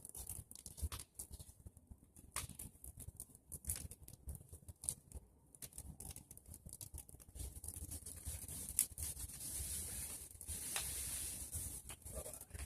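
Brush fire of pruned tree branches and dry leaves burning, with irregular crackles and pops over a steady hiss.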